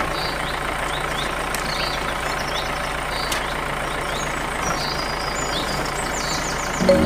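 A small motor running steadily with an even hum, while birds chirp now and then.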